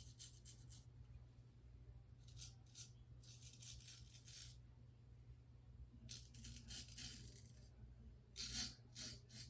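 Faint scraping of a vintage straight razor cutting stubble through shaving lather, in several short strokes with pauses between.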